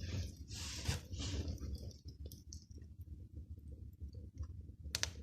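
Small kindling fire just lit in a new brick fireplace firebox for a test firing to check the chimney draft: a short hiss in the first second or so, then faint crackling with scattered small clicks and one sharp crack near the end, over a low steady rumble.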